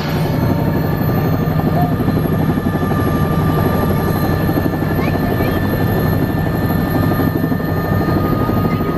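Helicopter turbine and rotor running loud and steady: a fast, even rotor beat under a steady high whine.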